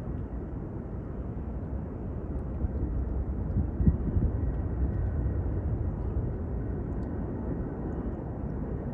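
Four-engined Airbus A380 jet rumbling as it comes in to land, a steady deep roar that swells slightly midway, with a brief knock about four seconds in.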